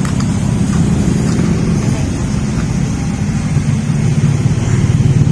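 A small engine idling steadily, with a fast even pulsing.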